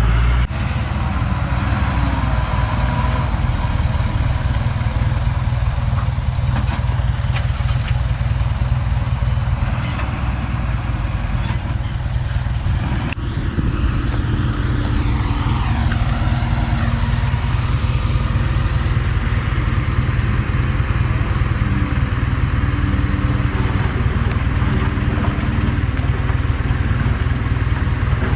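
Heavy diesel construction machinery running steadily with a deep engine drone. About a third of the way in there is a high hiss lasting a few seconds.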